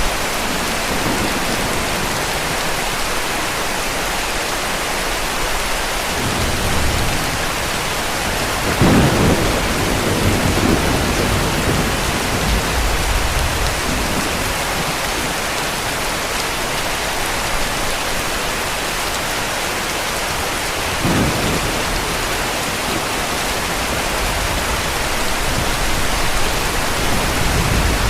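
Heavy rain falling steadily, with deep rolls of distant thunder: a strong rumble about nine seconds in lasting a couple of seconds, and a shorter one about twenty-one seconds in.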